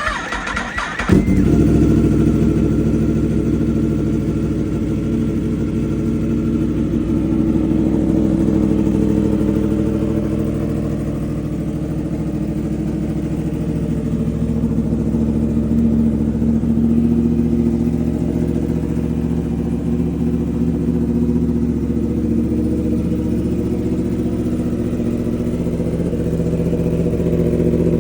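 2019 Yamaha R1 crossplane inline-four with a full titanium exhaust, cold-started: the starter cranks briefly, the engine catches about a second in and settles into a loud, steady idle.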